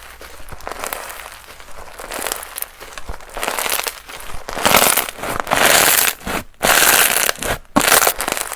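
Slime being played with by hand: an irregular run of crackling noises that grows louder and denser about halfway through, broken by two short gaps near the end.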